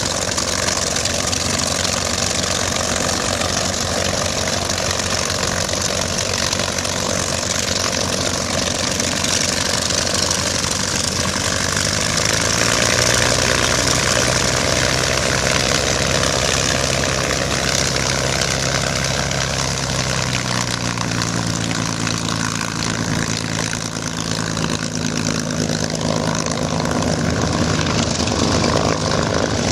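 Piston-engine propeller aircraft running on the ground at low power, a steady engine drone whose pitch rises slightly about twelve seconds in and shifts again around twenty seconds.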